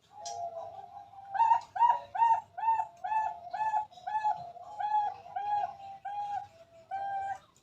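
A dove cooing: one long held note, then a quick run of about a dozen short coos, roughly two a second.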